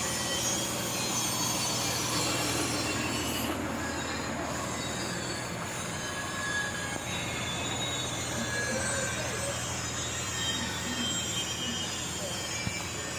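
Diesel engine of an Isuzu forward dump truck idling steadily.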